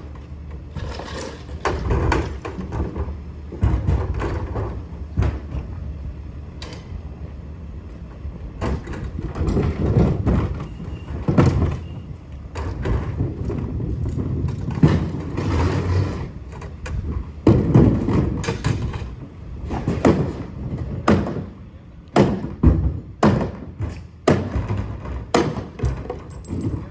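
Trash truck running with a low rumble, with many irregular bangs and thuds.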